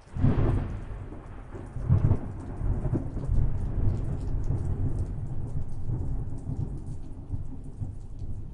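A thunderclap cracks right at the start, with a second peak about two seconds in, then rolls on as a deep rumble that slowly dies away, over steady rain.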